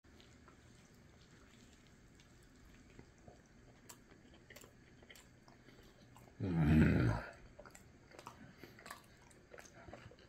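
Close-up chewing of a mouthful of burrito: faint wet clicks and smacks of the mouth. About six and a half seconds in, a short voiced hum from the eater.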